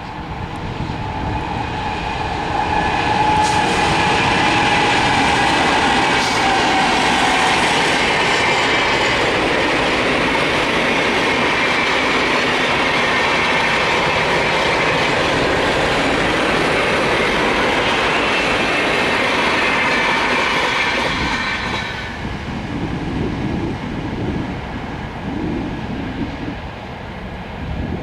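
Train passing close by at speed, its wheels clattering over the rails with a high squeal of wheel on rail. The noise builds over the first few seconds, holds steady, and drops away about three quarters of the way through.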